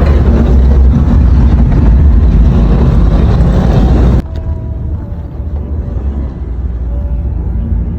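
Loud low rumble of a road vehicle heard from on board. About four seconds in it cuts off suddenly to a much quieter background.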